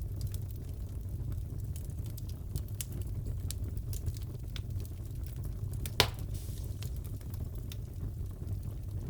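Wood fire crackling in a fireplace: a steady low rumble with scattered small pops and one sharp, louder pop about six seconds in.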